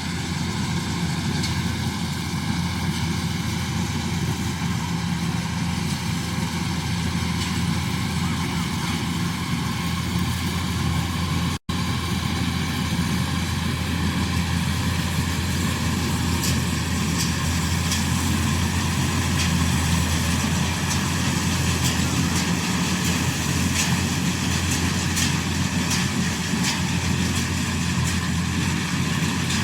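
Combine harvester engine running steadily under load as a low, even drone, with a momentary cut-out about twelve seconds in.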